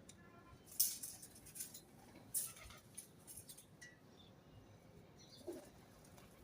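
Pigeons on a rooftop: a few sharp clicks or taps in the first half, the two loudest about a second and a half apart, and a short low coo near the end.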